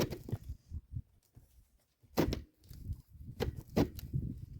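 A pipe being twisted and pushed in a tight hole cut through the trailer wall: scraping and rubbing with sharp knocks, one at the start, one about two seconds in and two more near the end. It is binding in the hole, which is still too small.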